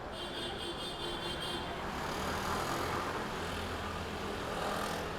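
Street traffic: motor vehicles passing over a steady low rumble, the noise swelling about two seconds in and again near the end, with a thin high whine during the first second and a half.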